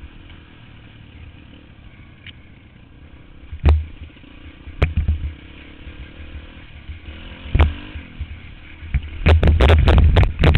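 Dirt bike engine running steadily, broken by loud knocks and thumps: single ones a few times, then a rapid cluster near the end.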